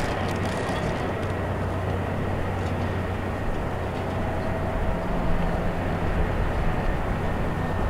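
Airbus A330-300 running on the ground during pushback: a steady low rumble with faint steady whines over it.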